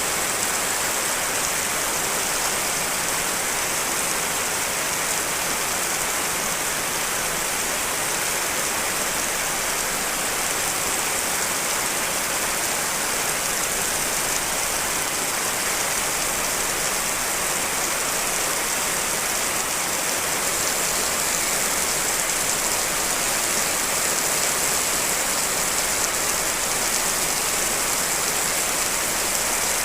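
Steady rain, a layered mix of several rain recordings, giving an even hiss strongest in the high range with no separate drops or thunder.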